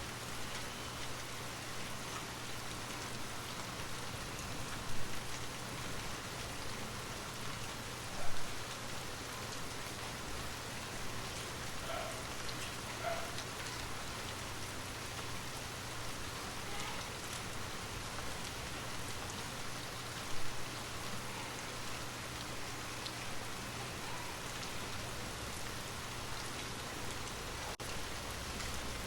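Steady rainfall, an even patter of rain on a surface. A few louder drops stand out, three times.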